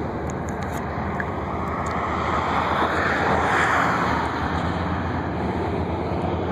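Airbus A320 jet airliner passing, its engine roar swelling to a peak a few seconds in and then easing off.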